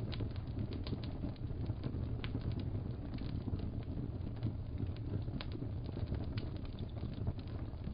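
Fire crackling in a fireplace: a steady low rumble with scattered, irregular sharp pops.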